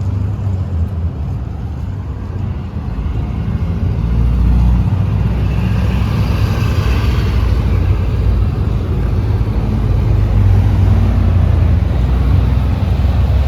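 Road noise from a vehicle on the move: a steady low rumble of engine, tyres and wind that gets louder about four seconds in, with a higher hiss swelling and fading midway, like another vehicle going by.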